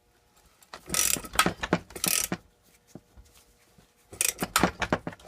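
Ratchet wrench clicking in two short bursts, about a second in and again near the end, as the forcing screw of a gear puller is turned to draw a rusted pulley off the engine shaft.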